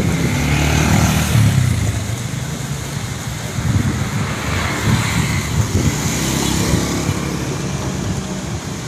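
Road traffic running past, a steady mix of car and motorbike engines and tyre noise, with wind rumbling on the microphone.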